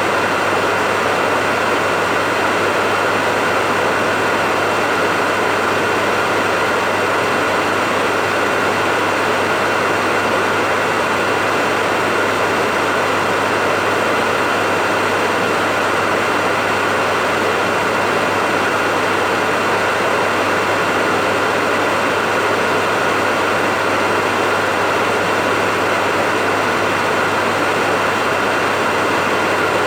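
Hair dryer running steadily: an even blowing hiss over a low motor hum and a faint high whine, with no change in speed or level.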